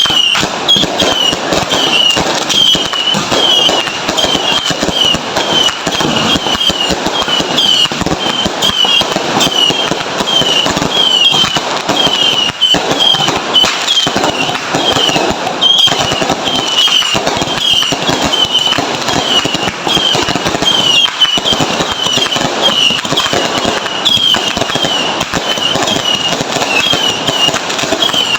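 Fireworks and firecrackers crackling and popping densely without a break, with a short high chirp repeating about twice a second over it.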